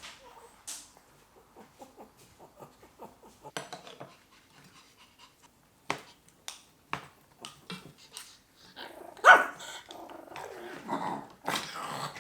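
Dog growling and barking in the last few seconds, after a run of short clicks and ticks.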